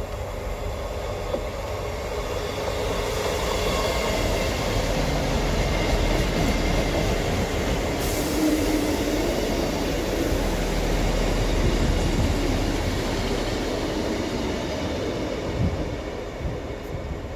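A ScotRail Class 158 diesel multiple unit passing through the station: diesel engines and wheels on the rails grow louder as it approaches, hold loud as it runs past, then fade as it draws away near the end. A faint high whine rides on top of the rumble while it is close.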